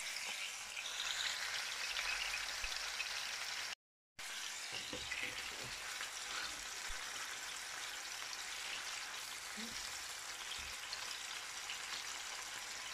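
Bacon-wrapped chicken rolls sizzling steadily in hot oil in a frying pan. In the second half there are a few light knocks as wooden spatulas turn them. The sound cuts out for a moment about four seconds in.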